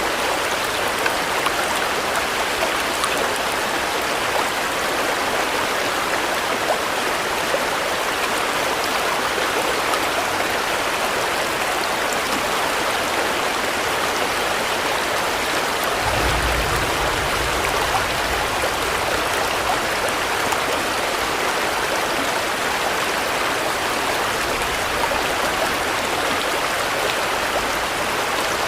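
Steady rain pouring down in an even, dense hiss. A low rumble comes in about halfway through and returns more faintly near the end.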